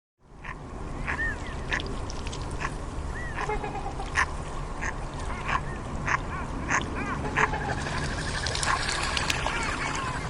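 Ducks quacking in short, irregular calls, many times over, over a steady low background noise.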